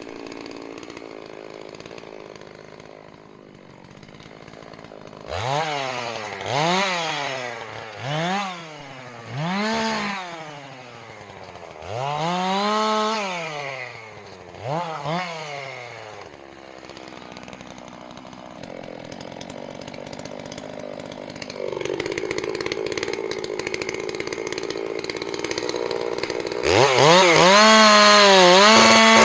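Two-stroke chainsaw idling, then revved in about six short blips that rise and fall in pitch, and brought up to a loud, steady full throttle near the end.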